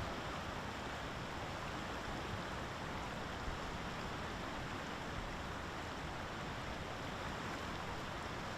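Steady, even rushing outdoor noise with no distinct calls or events.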